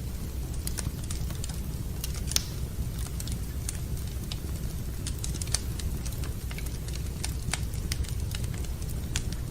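Wood fire crackling in a fireplace, with irregular sharp pops and snaps over a steady low rumble; the loudest pop comes about two and a half seconds in.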